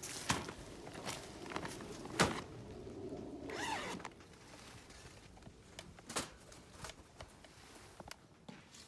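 A zipper being pulled, among a few sharp knocks and rustling.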